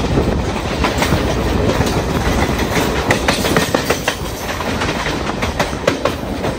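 Passenger train running at speed, its wheels clattering over the rail joints in quick, irregular clicks over a steady rumble.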